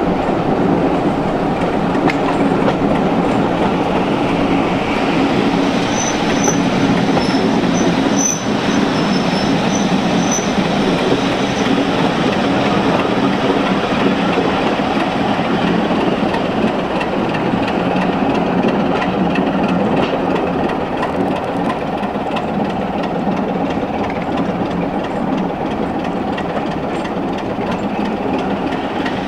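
Railway passenger coaches running on the track, heard from an open window near the rear of the train: a steady rumble of wheels on rails. There are short high wheel squeals about six to ten seconds in, and the noise eases a little in the last few seconds as the train runs in along the platform.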